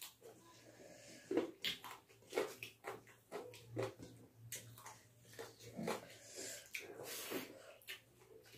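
Close-up eating sounds: wet chewing and lip smacks from people eating chicken curry and rice by hand, coming as irregular short smacks several times a second.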